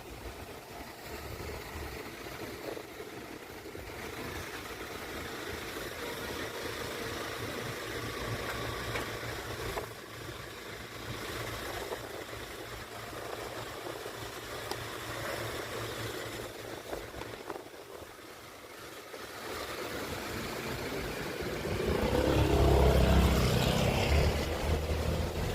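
Street traffic on wet roads, car engines and tyre hiss passing, with wind gusts buffeting the microphone over the last few seconds.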